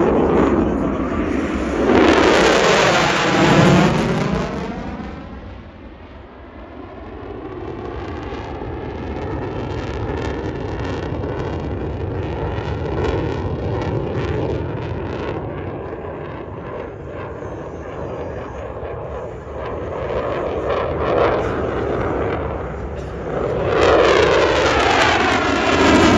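Display aircraft engine noise: a loud pass about two seconds in, then a steadier, quieter rumble as it moves away. The sound swells loud again near the end as the aircraft comes back over.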